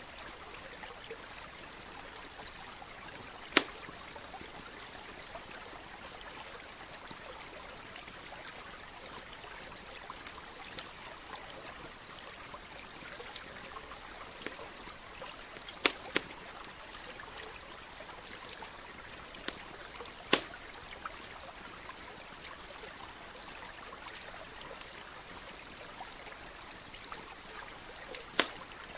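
Wood campfire crackling, with scattered small ticks and a few loud sharp pops, over the steady trickle of a small stream.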